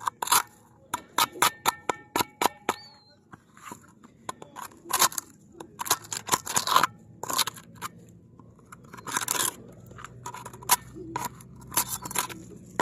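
Knife blade scraping and prying encrusted shells off a buoy: a run of irregular sharp scrapes and cracks, with a few longer rasping strokes.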